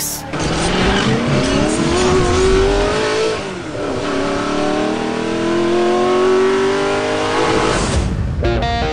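A car engine accelerating hard, rising in pitch, dropping at an upshift about three and a half seconds in, then climbing again through the next gear. It cuts off abruptly near the end as music comes in.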